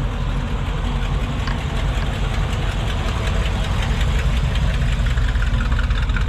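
Car engine running close by at low speed, a steady low-pitched engine sound as the car rolls in to park.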